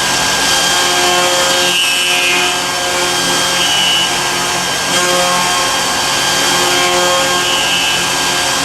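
CNC lathe turning metal: a steady cutting noise with a constant high whine from the machine.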